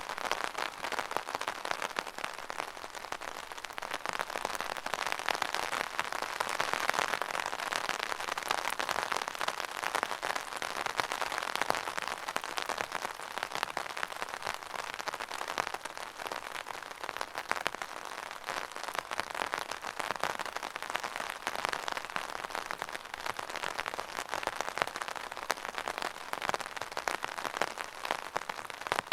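Steady rain falling, a dense patter of many fine drops that swells a little and eases again.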